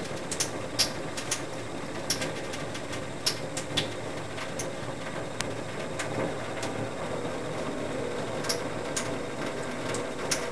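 Water trickling steadily out of a small hole in the bottom of a bottle as the waterfall bong drains, with scattered irregular clicks throughout.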